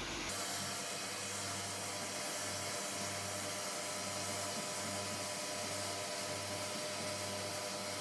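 A machine running steadily, with a constant hum and a broad hiss, the hum dipping briefly about once a second. It changes abruptly just after the start.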